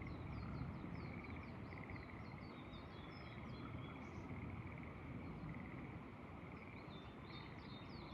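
Birds singing in quick runs of short falling chirps over frogs calling in pulsing trills, with a steady low rumble of wind.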